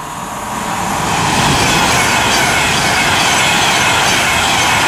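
Class 390 Pendolino electric train passing at speed, its noise building over the first second and a half to a steady loud rush of wheels on rail and air.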